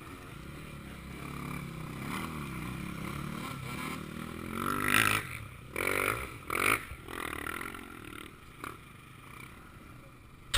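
Motocross bike engines revving, the pitch rising and falling, with three louder short bursts about halfway through.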